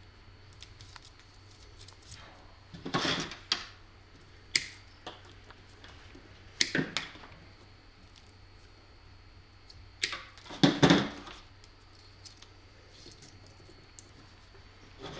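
Metal hand tools clicking and rattling in a few short bouts, the loudest about eleven seconds in, as wires are stripped and worked by hand.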